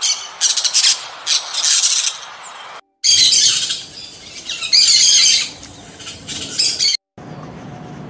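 Birds calling: shrill chattering in quick bursts for the first couple of seconds, then, after a short break, three bursts of loud harsh squawks. After another brief break near the end, a steady low hum takes over.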